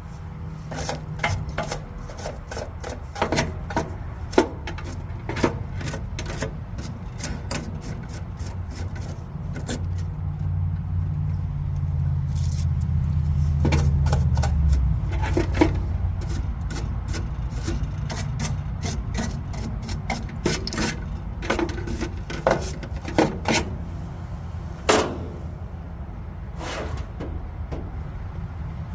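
Hand work on an electrical panel: irregular clicks, taps and scraping of tools and parts, over a low steady rumble that swells in the middle and drops back about halfway through.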